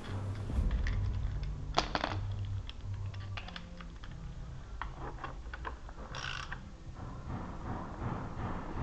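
Scattered light clicks and clinks of hand tools and small metal parts being handled on an engine, with a sharper pair of knocks about two seconds in and a brief scrape a little after six seconds.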